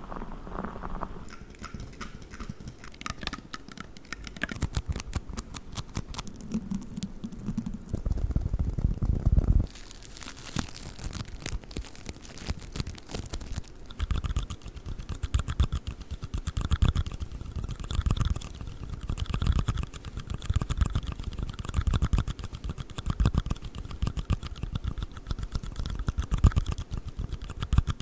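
Fast ASMR tapping and scratching on various small objects, a rapid stream of sharp clicks with some low thumps. About halfway through it settles into steady, fast tapping on a black ring box.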